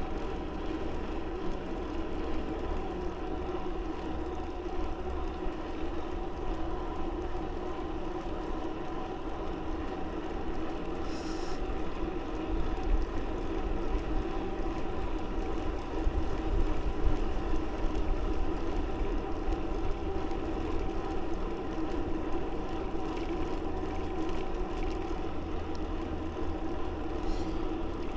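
Steady hum of a bicycle in motion, with low wind rumble on the microphone; a brief high chirp about eleven seconds in and again near the end.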